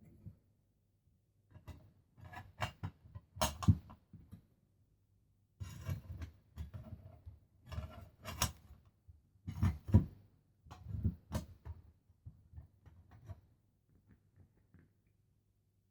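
Metal plates of a knock-down fire pit clinking, knocking and scraping as they are handled and slotted together. The handling comes in irregular bursts and thins out near the end.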